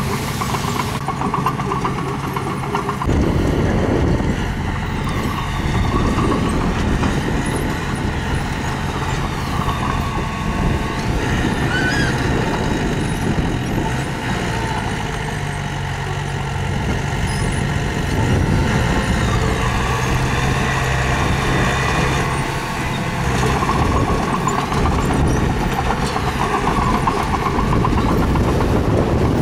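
Diesel engine of heavy earthmoving machinery running under varying load, its pitch and loudness rising and falling as it works.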